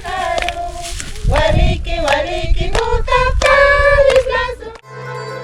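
Several voices singing a folk song together, with steady hand clapping. About five seconds in, it cuts off suddenly and plucked-string instrumental music begins.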